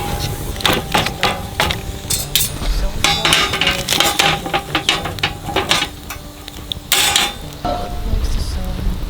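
Repeated irregular clinks and knocks of metal cooking utensils and cookware over light background music.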